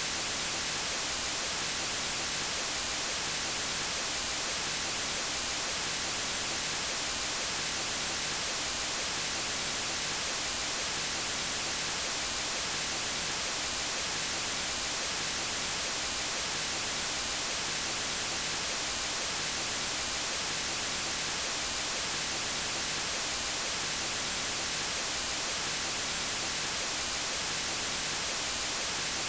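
Steady electronic white noise: an even, unchanging hiss across all pitches, strongest in the high end.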